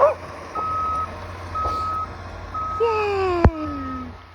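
Snow-clearing vehicle's reversing alarm beeping steadily, a single tone about once a second. A dog gives a short yelp at the start and a long falling whine near the end.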